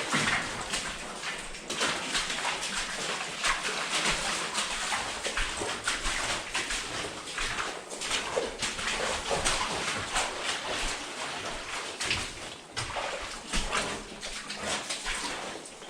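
Boots squelching and splashing through wet, clay-like mud and water, a steady run of footsteps and rustling movement.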